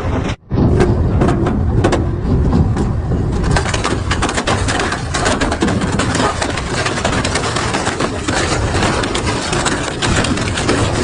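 Industrial double-shaft shredder grinding and crushing metal scrap, a continuous loud grinding full of sharp cracks and bangs, with a brief drop-out about half a second in.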